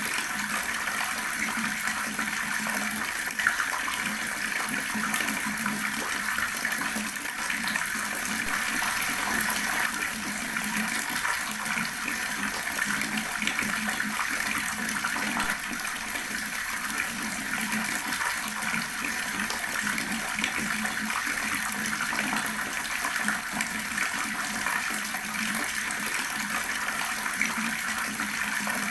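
Water running steadily from an outdoor tap, splashing into water below.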